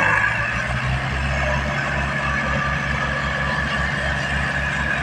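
Tractor diesel engine running steadily, with an even low-pitched chugging throb.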